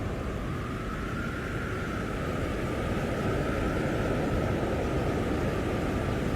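Blizzard wind blowing steadily: a deep, dense rush with a faint wavering howl above it, swelling slightly about halfway through.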